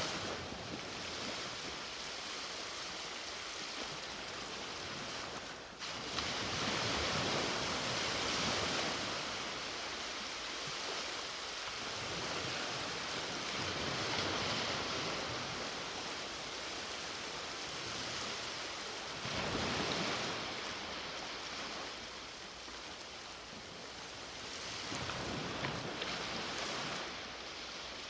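Sea waves washing onto a beach: a steady surf hiss that swells several times as waves break and run up the shore, with a sudden jump in level about six seconds in.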